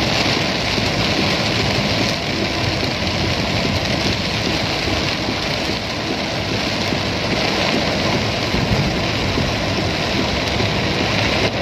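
Heavy rain pelting a car's roof and windscreen, heard from inside the cabin as a loud, steady hiss over the car's engine and road noise while driving.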